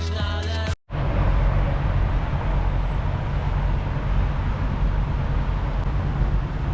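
Electronic intro music cuts off under a second in. A steady low vehicle-engine rumble follows, the kind of idling diesel trucks and passing traffic make.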